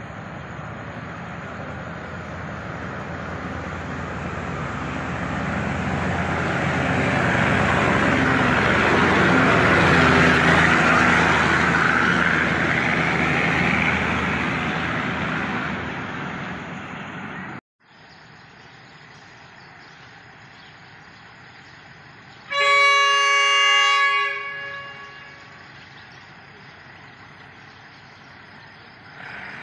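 A passenger train running past the platform, its wheel-and-rail noise swelling to a peak about ten seconds in and then fading. After a cut, a train horn sounds once for about a second and a half from an approaching diesel railcar.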